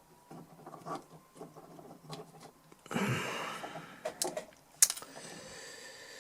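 Light clicks, taps and scraping from hands and tools working on the inside of an opened DI box. A louder scratchy scrape comes about three seconds in, and a sharp click follows near the end.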